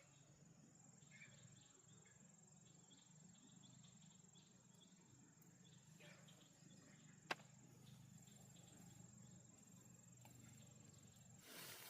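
Faint ambience with a steady high-pitched insect drone, such as a cricket, and a single sharp click about seven seconds in.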